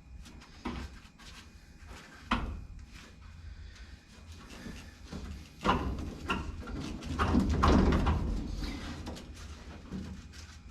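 Irregular knocks and clattering of metal parts being handled and shifted inside a car door, with a few sharp knocks and a longer, louder stretch of rattling about two-thirds of the way in.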